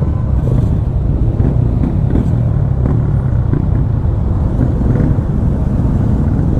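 Motorcycle engine running steadily while riding slowly, heard as a continuous low rumble.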